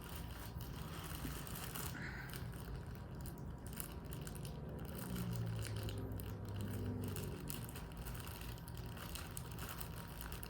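Shipping package being torn open by hand, its wrapping crinkling and crackling in quick small bursts.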